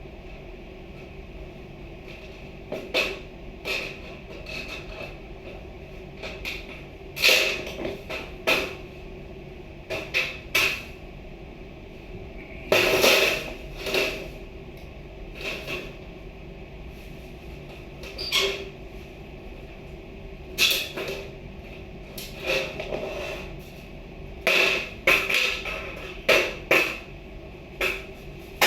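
Irregular knocks and bangs of renovation work, some single and some in quick pairs, over a steady background hum.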